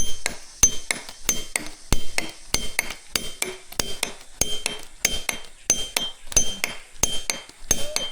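Repeated metal-on-metal striking: sharp, uneven knocks, about two to three a second, each with a brief high ringing.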